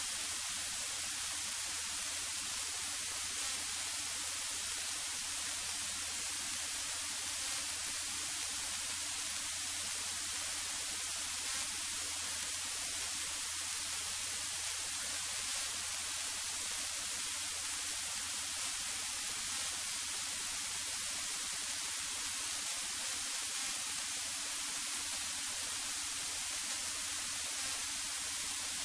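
Steady hiss of a light aircraft's cockpit intercom audio, with a faint low engine hum beneath it, the engine throttled back for a descent.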